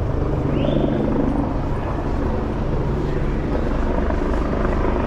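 Police helicopter overhead, its rotor beating in a steady fast chop over a continuous rumble.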